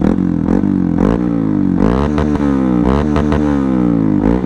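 Honda CRF 150L single-cylinder four-stroke engine revved repeatedly while standing still, through a Tridente F19 full-system exhaust set to its racing mode with the baffle ground out. There is a quick throttle blip about once a second, each rise in revs falling back toward idle, with a deep bassy exhaust note.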